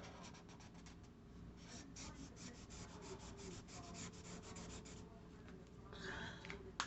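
Marker tip rubbing on thick mixed-media paper in quick, faint back-and-forth strokes, several a second, for a few seconds; a single sharper tap near the end.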